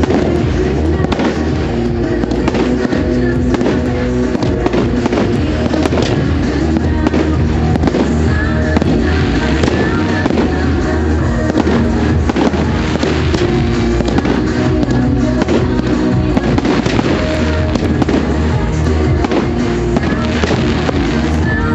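Fireworks going off in quick succession, many sharp bangs and crackles throughout, over loud music played through a public address system.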